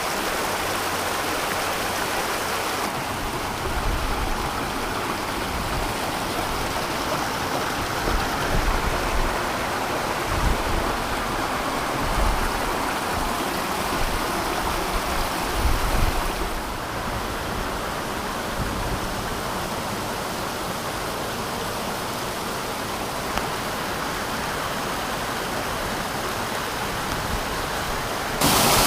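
Stream and waterfall water rushing steadily inside a narrow rock gorge, with low wind buffets on the microphone now and then.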